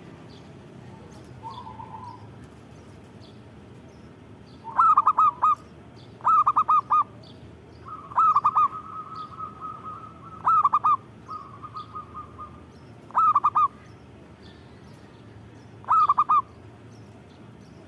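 Zebra dove (perkutut) cooing its rippling, staccato song, six short phrases repeated every two to three seconds from about five seconds in, with a long steady note held twice between them. Faint high chirps of other small birds sit in the background.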